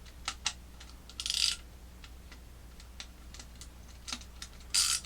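Small wrench clicking and rattling against the mounting nut of a clock movement: scattered light clicks, with two short metallic rattles, about a second in and near the end.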